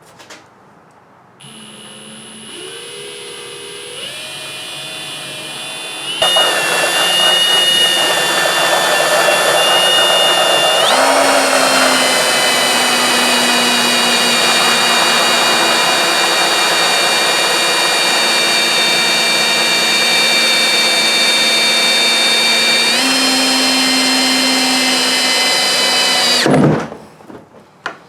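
Drill driving a 2 1/8-inch hole saw through a kayak's thick plastic hull. The motor whine climbs in speed in steps over the first few seconds, then runs steadily for about twenty seconds, jumping up in pitch twice, and cuts off near the end.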